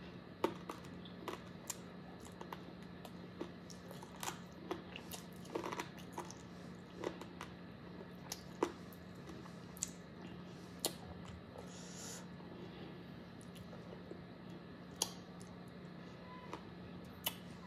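A person chewing and biting into spicy chicken wings close to the microphone: irregular crisp crunches, clicks and mouth smacks throughout, over a faint steady hum.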